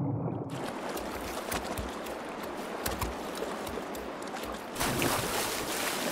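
Shallow stream water rushing and splashing as a black bear cub wades and lunges after salmon, with a louder splash a little before the end.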